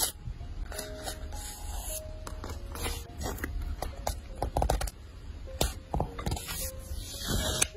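Close-up crackling, tearing and tapping of paper and stickers being handled, with a soft, simple melody of short notes playing underneath.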